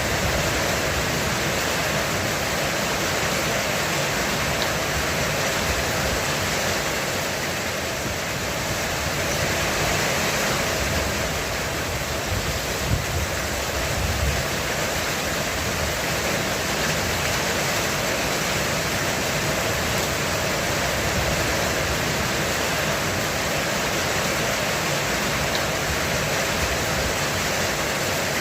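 Heavy rain falling steadily on a roof, an even hiss throughout. A few brief low thumps come a little before the middle.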